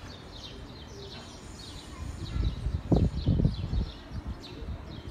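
Small birds chirping: many short, high, repeated chirps throughout. About halfway through, a louder low rumble lasting a second or two.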